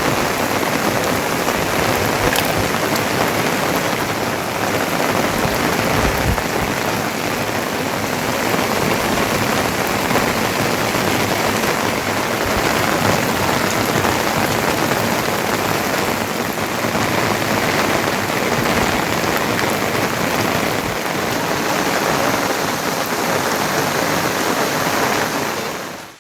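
Heavy rain falling steadily, a loud, even hiss with scattered drop impacts; it cuts off suddenly at the end.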